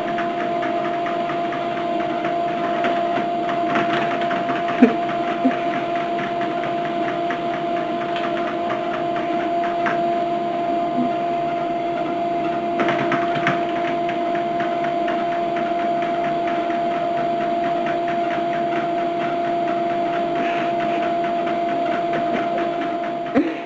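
A small electric motor running steadily: a constant hum with a fast, fine rattle and a few light knocks. It cuts off abruptly near the end.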